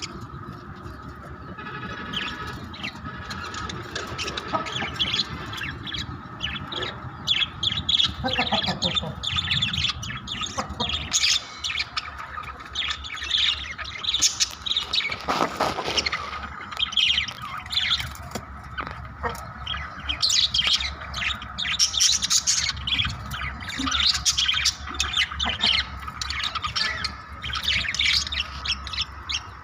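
A group of budgerigars (Australian parrots) chattering, with many rapid short chirps overlapping throughout.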